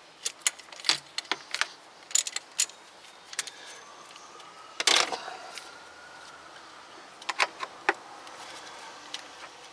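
Irregular sharp metallic clicks and clinks of a socket, extensions and ratchet being handled and fitted onto a starter-motor bolt. One louder clank comes about five seconds in, and a quick run of clicks near the end.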